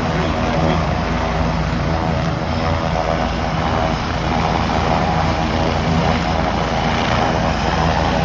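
Helicopter's engine and rotor running steadily and loudly at close range, with an even drone that holds its pitch.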